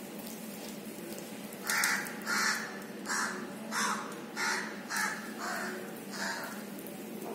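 A bird calling over and over, about eight calls spaced roughly half a second apart, starting about two seconds in.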